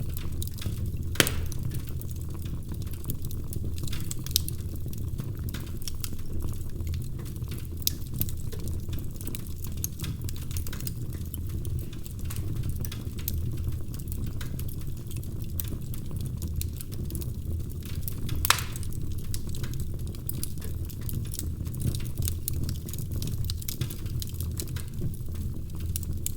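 Wood fire crackling in a fireplace: a steady low rumble of burning with frequent sharp pops and snaps, two louder pops about a second in and a little past the middle.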